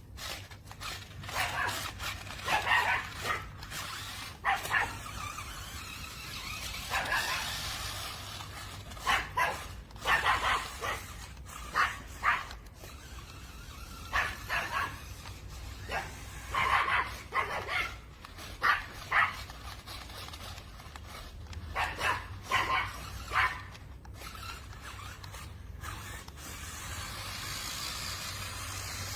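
A dog barking repeatedly, in short barks that come in clusters of two to four.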